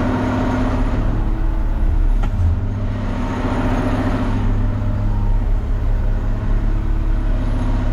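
Front-loader garbage truck's engine running steadily, a constant low drone, with a wash of hissing noise swelling up twice.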